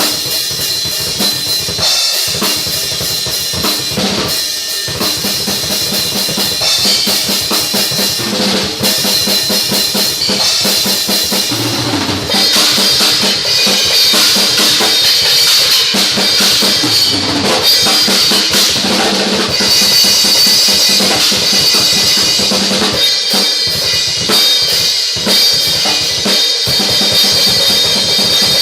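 Pearl Export drum kit played hard: fast, dense strokes on bass drum, snare and toms under cymbals. About twelve seconds in, the cymbal wash gets louder and stays up.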